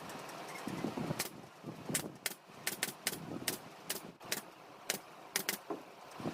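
About a dozen sharp clicks at irregular intervals, coming quicker in the middle, over a low rustling handling noise.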